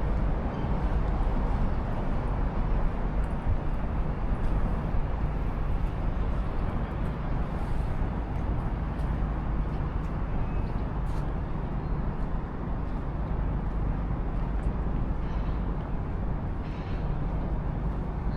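Steady city street ambience: a continuous low traffic rumble with a wash of urban background noise, no single event standing out.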